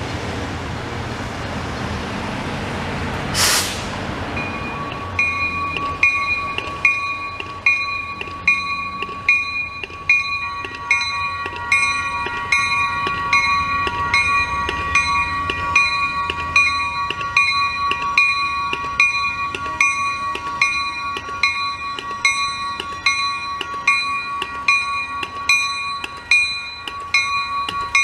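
Train noise rumbling, with a short hiss about three and a half seconds in. Then, about five seconds in, a railroad bell starts ringing in a steady, even rhythm, a little over one strike a second.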